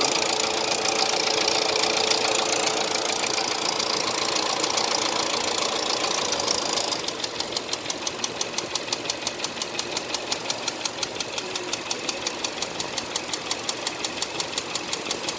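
Hyundai Accent 1.6 engine running with a knock. For about the first seven seconds it runs louder and more evenly, then the level drops and a regular, sharp knocking stands out, several knocks a second.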